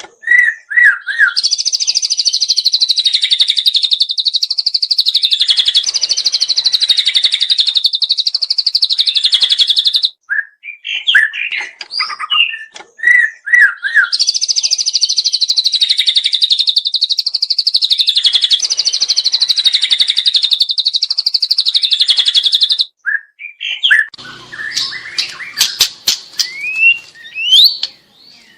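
Juvenile white-rumped shama singing: short whistled notes alternating with two long, rapid trills of about eight seconds each. Near the end come sharp clicks and short rising chirps.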